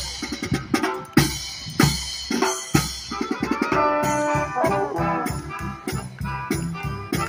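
A brass and percussion marching band playing, with trumpets, trombones and drums. The first few seconds are mostly drum strokes; about halfway through, the brass comes in with held chords over the beat.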